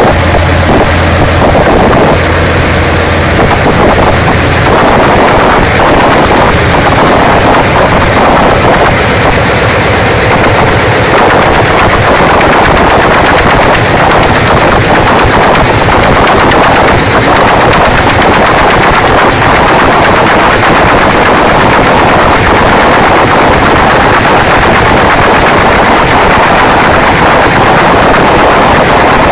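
ALCO 251B diesel engine running, very loud and close, with a rapid, even clatter of firing strokes. A steady low hum lies under it for the first few seconds, then drops away.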